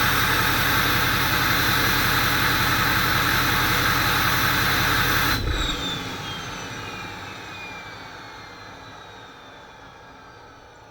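2004 Ford F-250's 6.0 Powerstroke V8 turbodiesel running with a steady high turbo whistle. About halfway through the engine sound cuts off suddenly and the whistle keeps going, sliding slowly down in pitch and fading as the turbo spins down after shutdown.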